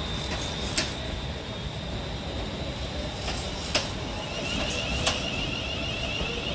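Electric train rolling slowly through station pointwork: a steady low rumble broken by a few sharp clicks of wheels over rail joints. A high, wavering squeal comes in about four and a half seconds in.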